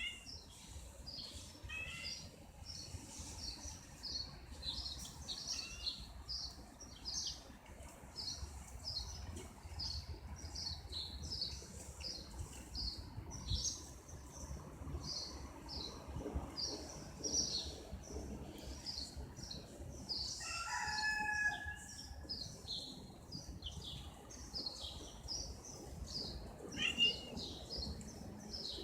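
Small birds chirping over and over, short high notes about twice a second, with a louder pitched animal call about twenty seconds in.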